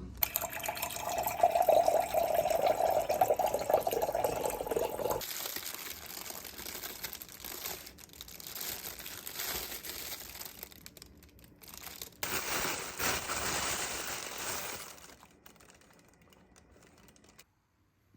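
Packaging crinkling and rustling as it is handled and torn open, in several short stretches with abrupt breaks between them.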